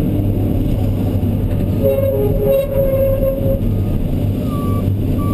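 Kobelco SK210LC excavator's diesel engine running steadily, with a horn sounding for about a second and a half near the middle and a truck's reversing beeps starting near the end.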